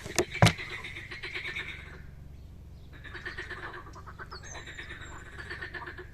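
Frogs calling in chorus at a pond: overlapping rapid pulsed croaking trains, pausing briefly about two seconds in before resuming. Two sharp knocks come just at the start.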